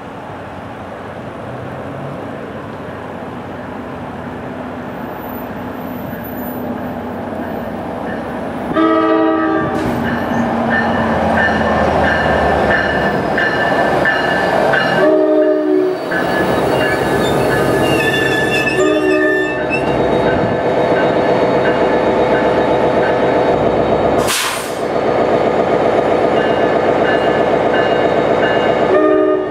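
NJ Transit PL42AC diesel locomotive leading a commuter train past the platform: its engine and wheel noise grow louder as it approaches and stay loud as the cars roll by. The horn sounds in about four short blasts spread through the second half, and there is a brief sharp hiss near the end.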